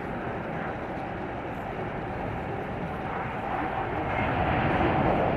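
Jet noise from an Airbus A380's four engines as it comes in on its landing approach: a steady, even rush that grows louder over the last couple of seconds.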